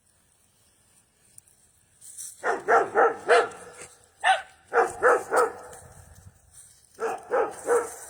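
Dog barking in quick runs of three or four barks, starting about two and a half seconds in, with short pauses between the runs.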